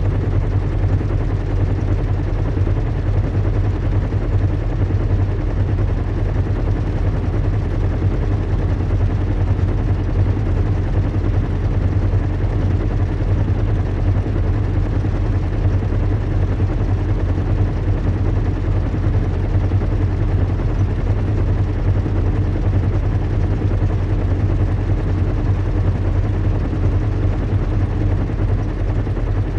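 Recreated ambience of a zeppelin in flight: a steady, low rumble and hum of airship engines, with a faint even hiss above and no change in pitch or level.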